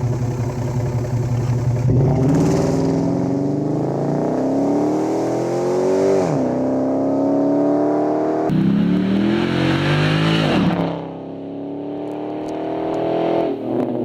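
Dodge Charger engine under full-throttle acceleration from a standing launch. It holds steady revs briefly, then climbs in pitch through the gears, with revs dropping sharply at each of about four upshifts.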